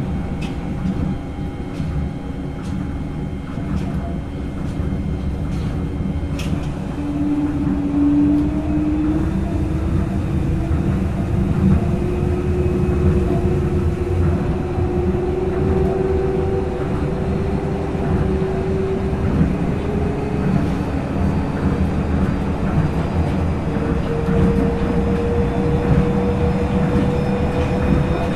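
Tokyo Monorail 2000 series traction motors and Hitachi IGBT VVVF inverter, heard from directly above the motors as the train accelerates. A low running rumble and a sharp click about six seconds in, then an inverter whine that starts about seven seconds in and rises slowly in pitch in steps as the train gathers speed.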